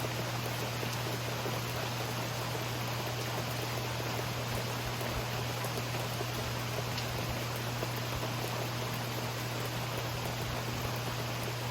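Steady rain falling, an even hiss with no thunder claps, over a constant low hum.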